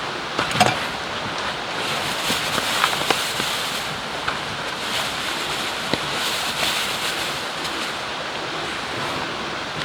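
Steady rushing of running water, with a few sharp ticks and taps scattered through it.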